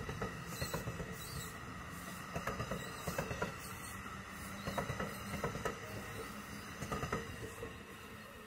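A train rolling through on the rails: a low rumble with irregular clicks and squeaks from the wheels, easing off slightly near the end.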